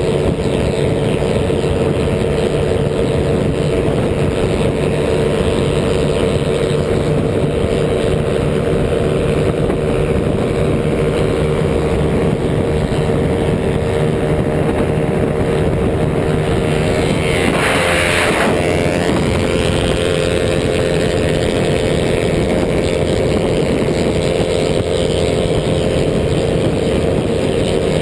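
Small motorcycle engine running at a steady high speed, its hum holding one pitch, under constant wind rush on the bike-mounted camera. A brief rushing hiss swells and fades about two-thirds of the way through.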